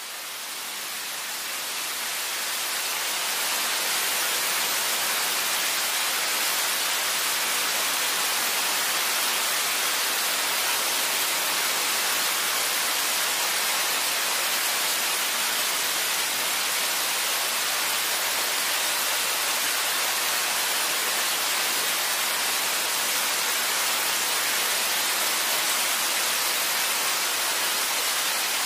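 Steady rain, a dense, even hiss that fades in over the first few seconds and then holds level.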